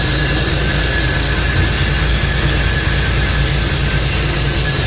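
A loud, steady hiss with a thin whistle in it, over an idling truck engine's low rumble.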